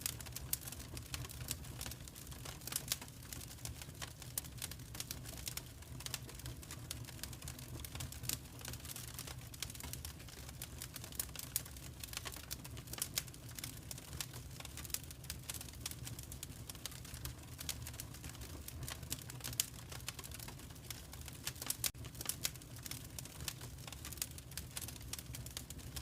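Fireplace fire crackling, with constant small irregular pops and snaps over a low steady rumble.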